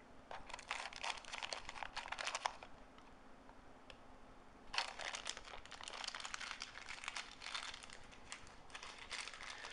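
Rummaging through a parts box of small electronic components such as capacitors: rattling, clicking and crinkling of parts and packaging, in two bouts with a pause of about two seconds between them.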